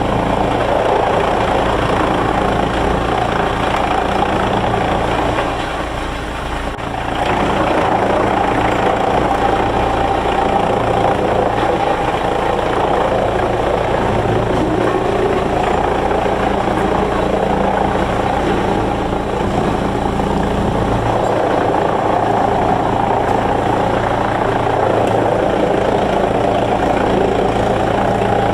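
Heavy sawmill machinery running steadily with a low hum, dipping briefly about six seconds in.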